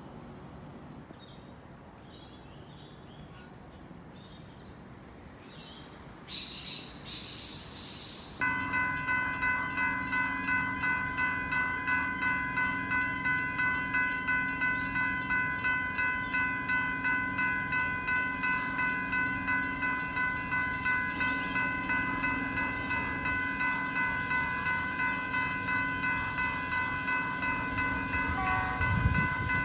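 Railway level crossing warning bell ringing in quick, even strokes, a few a second, starting about eight seconds in: the signal that a train is approaching. A low rumble rises near the end.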